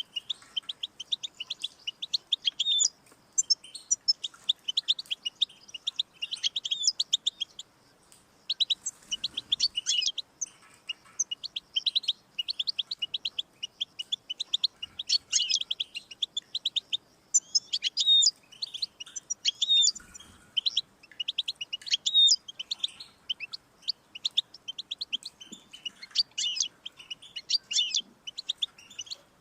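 European goldfinch singing: a long, fast twittering song of rapid high notes, trills and buzzy phrases, broken by a few short pauses.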